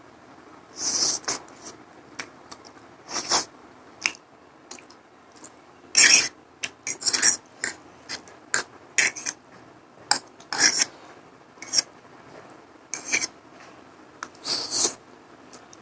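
Close-miked eating of masala Maggi instant noodles: irregular short bursts of slurping and chewing, with a utensil scraping against the dish.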